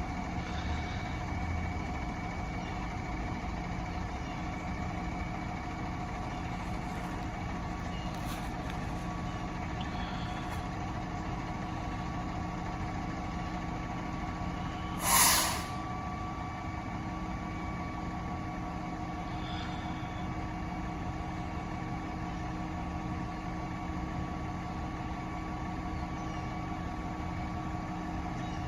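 Side-loader recycling truck's diesel engine idling steadily, with one short air-brake hiss about halfway through.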